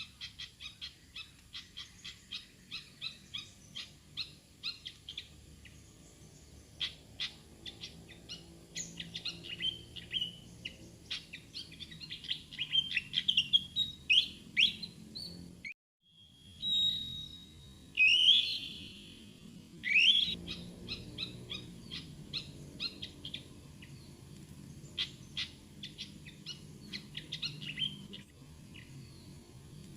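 Pied fantail calling: quick strings of sharp, high chip notes with a few squeaky rising whistles. The sound cuts out briefly about halfway through.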